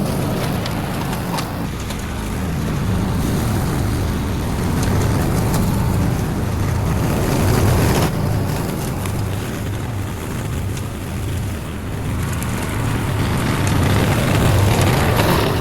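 Small petrol lawn mower engine running steadily under load while cutting overgrown grass, its level wavering slightly.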